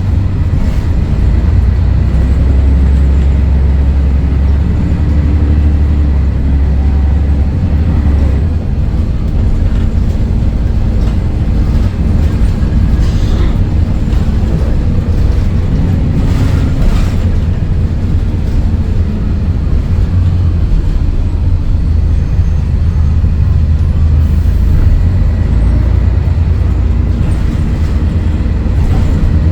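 Scania DSC11 diesel engine of a Scania L113CRL bus running under way: a loud, deep drone whose pitch shifts a few times as the bus changes speed, with a brief dip about eight seconds in.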